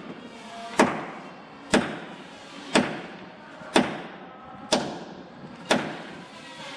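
Hammer blows on wood during boat building: six sharp strikes, evenly paced at about one a second, each ringing briefly.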